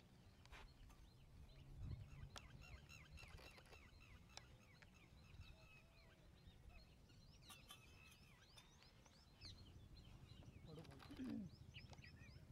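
Faint outdoor ambience: small birds chirping over and over in short quick notes above a low rumble, with a brief louder low sound about eleven seconds in.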